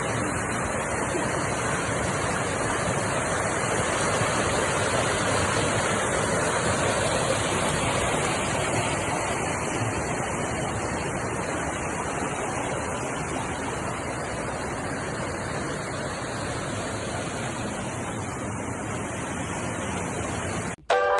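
A waterfall's falling water: a steady, even rush that runs on unchanged and cuts off abruptly just before the end.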